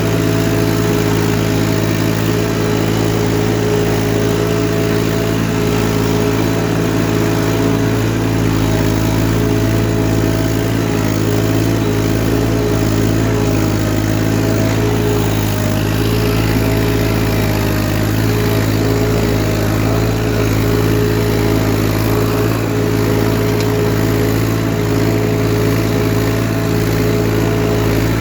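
Massey Ferguson 1035 DI tractor's three-cylinder diesel engine running at a steady, constant speed while pulling a cultivator.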